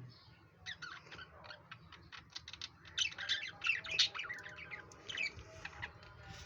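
Budgerigars chattering: a rapid, overlapping stream of short chirps and squawks.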